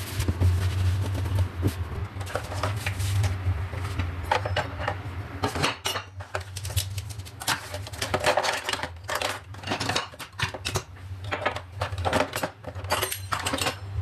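Dishes and cutlery clinking and clattering as kitchenware is handled and set down, in many quick irregular knocks, over a low steady hum.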